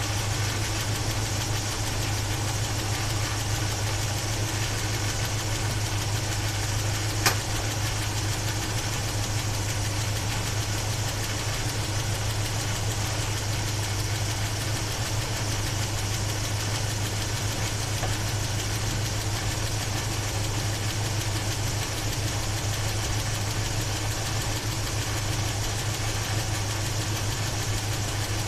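1976 Chevy Blazer's 350 small-block V8 idling steadily. A single sharp click sounds about seven seconds in.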